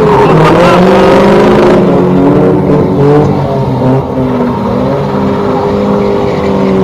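Car engine running loudly, its pitch rising and falling as it is revved.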